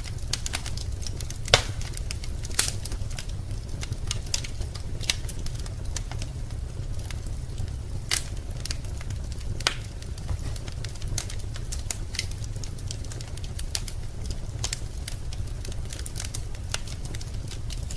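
Wood fire burning in a fireplace, crackling with irregular sharp pops over a steady low rumble; the loudest pop comes about a second and a half in.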